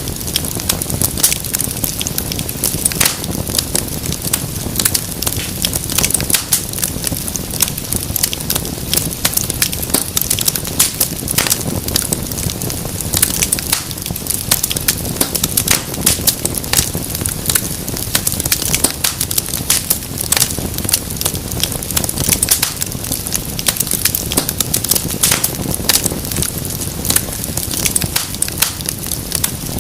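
Wood fire crackling steadily, with dense, irregular snaps and pops over a low hiss and rumble of flames.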